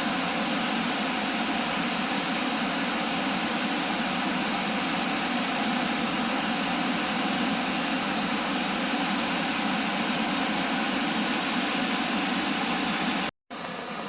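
Waterfall rushing: a steady, even rush of falling water. Near the end it cuts off abruptly and a quieter rush of water follows.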